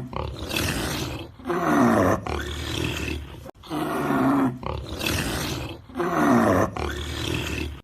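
A large wild animal roaring: long, deep, harsh roars in a group of three, with the same group repeated about halfway through.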